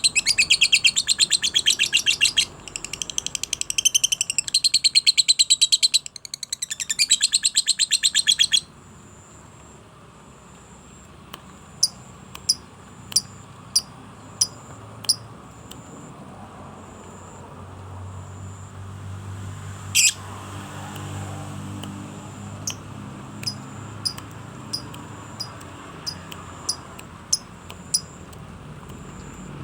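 Caged songbird practising its song: a loud, very fast rattling trill for the first eight or so seconds, then short sharp chirps repeated in runs, a little under two a second.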